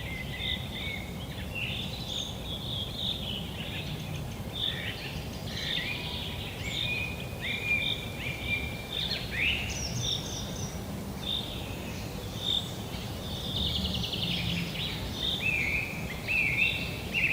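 Green sandpiper whistling, a run of short clear sliding notes repeated quickly, with other bird chatter in the background. A steady low rumble of background noise lies underneath.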